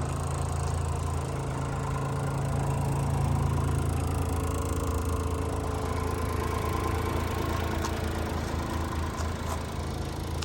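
1997 Honda Acty truck's small three-cylinder engine idling steadily.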